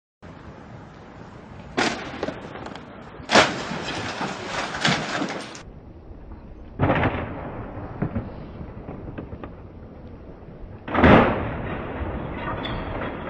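Several sudden loud bangs and crunches of vehicle collisions over steady road and engine noise. The loudest come about three and a half seconds in and near the end.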